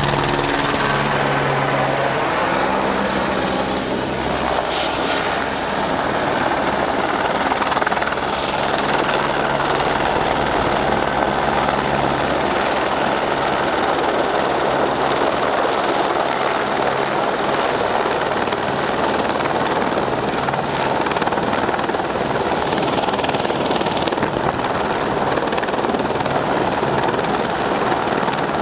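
Firefighting helicopter's rotor and engine running, a loud, steady noise, with a low hum that fades over the first few seconds.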